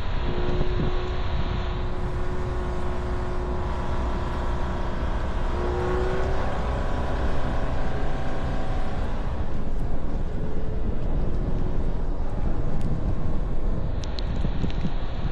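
A car driving: steady low road and engine noise, with a faint pitched hum that rises briefly about six seconds in.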